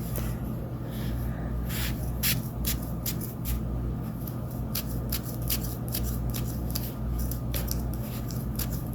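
Scissors snipping repeatedly at a cotton ball, a run of short, irregular clicks, the blades not cutting all the way through the fibres. A low steady hum runs underneath.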